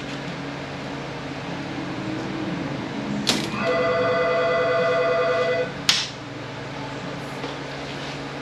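A telephone rings once for about two seconds, with a fluttering electronic ring. There is a sharp metallic clink just before the ring and another just after it, over a steady low hum.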